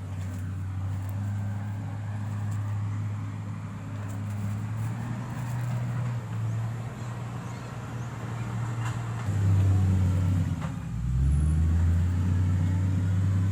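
Heavy-equipment diesel engine running steadily. It gets louder about two-thirds of the way through, dips briefly, then picks up again.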